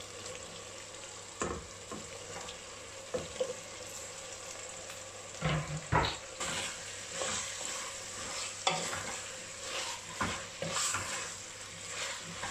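Mutton mince sizzling in a stainless steel pot, with a few knocks as cubed raw potatoes are dropped in during the first half. In the second half a wooden spoon scrapes and stirs through the mix in repeated strokes.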